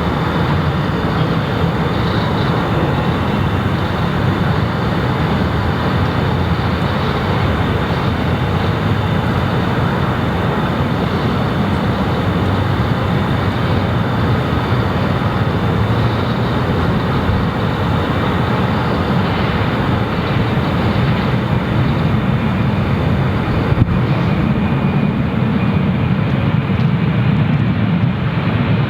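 Jet airliner engines running at high power, a loud steady rushing noise with a deep low end, typical of an airliner's takeoff run.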